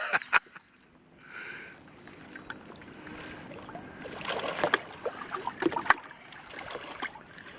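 Water sloshing and splashing around a small fishing boat, with scattered knocks and clicks, busiest a few seconds in.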